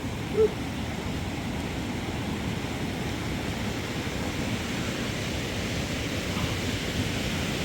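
Steady rushing noise with one short dog yip about half a second in.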